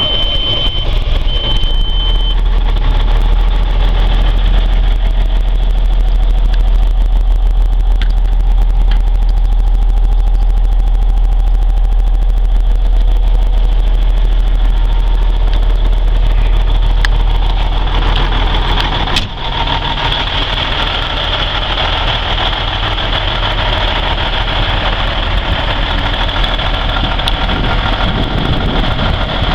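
Cummins N14 Plus diesel of a 2001 Kenworth semi tractor idling steadily just after starting. A high beep sounds twice in the first two seconds. About two-thirds of the way through there is a click and the deep rumble drops a little.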